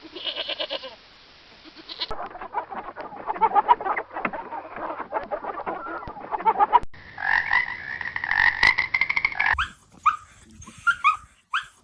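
A series of animal calls from different short clips, changing abruptly several times: a stretch of many short calls, a longer held call, then a run of short falling chirps near the end.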